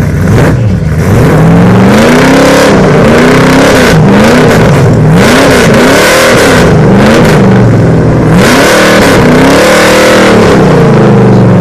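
1971 Plymouth Barracuda's engine being revved again and again, the pitch rising and falling with each rev, very loud.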